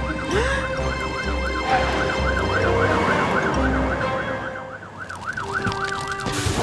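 Cartoon fire engine siren with a fast up-and-down wail, about three to four cycles a second, over a low engine-like brumming that stops about four seconds in. The siren is too quiet to be heard over the trucks' brumming.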